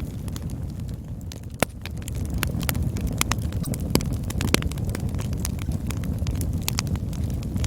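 Campfire burning, a low steady rumble with irregular sharp crackles and pops of the wood, a few louder snaps about a second and a half in and around four seconds in.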